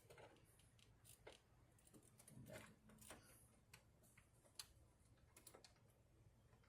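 Near silence: faint, irregular clicks and light taps from hands and tools working on the truck, over a low steady hum.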